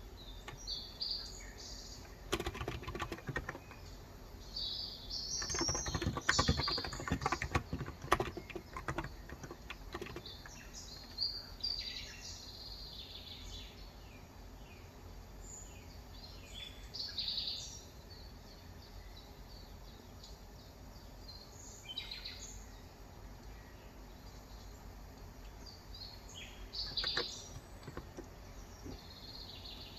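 Typing on a Cox Endeavor electro-capacitive (35 g) tenkeyless keyboard, in two bursts of keystrokes in the first third, then stopping. Birds chirp in short high calls throughout, over steady background noise.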